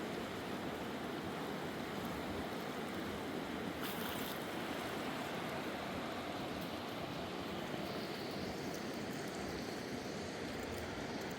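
Fast-flowing mountain river rushing steadily, with a brief click about four seconds in and a few more near the end.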